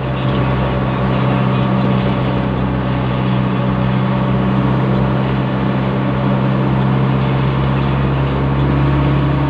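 Diesel vehicle driving at a steady speed: the engine hums on an unchanging low note, with a wash of road and tyre noise.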